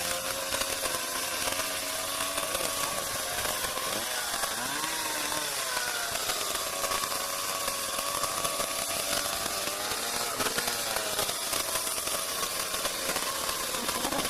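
Homelite PS33 two-stroke chainsaw engine running just after starting, its speed rising and falling twice, about four seconds in and again around ten seconds.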